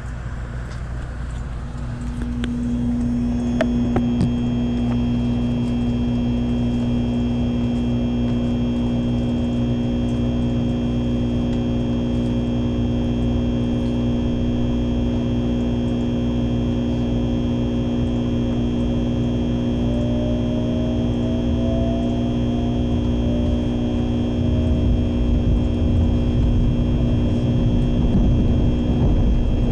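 Shinkansen Sakura train running, heard from inside the car: a steady low rumble, with the electric traction system's whine setting in a few seconds in as several steady tones. Past the middle, one of the tones climbs slowly and the rumble grows louder as the train gathers speed.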